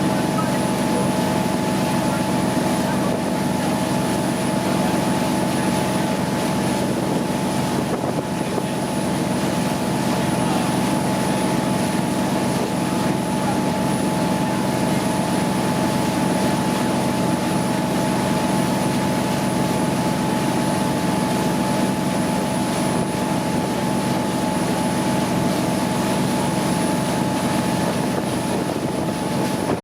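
Boat engine running steadily: an even drone with a constant hum and no change in speed.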